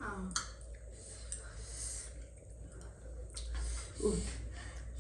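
Close-up eating sounds of instant noodles: chewing and slurping with scattered small mouth clicks and breathing, and a short murmur about four seconds in, over a low steady hum.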